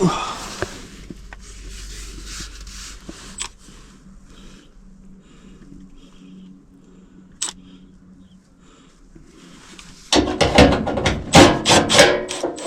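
Hands and tools working at an HVAC air handler. There is rubbing and rustling, a sharp click about seven and a half seconds in, and then a loud clatter of knocks and metal handling near the end.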